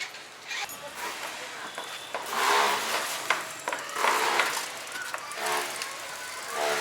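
Indistinct voices of people talking and calling out in short bursts, over faint outdoor background noise.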